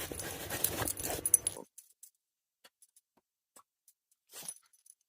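A pet dog moving about and making brief noises for about the first second and a half, then only faint clicks and one short rustle near the end.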